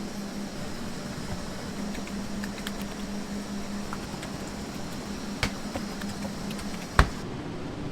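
Steady hum of kitchen machinery such as a ventilation fan, with scattered light clicks and taps of kitchen work and one sharp knock near the end.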